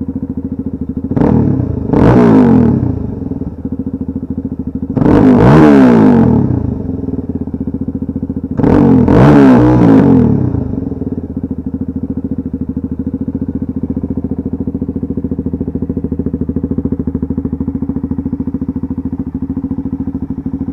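Suzuki DR-Z400 dirt bike's single-cylinder four-stroke engine idling through an exhaust with the muffler baffles removed. The throttle is blipped four times, about 1, 2, 5 and 9 seconds in, each rev rising and falling back to a steady idle; the last two are longer.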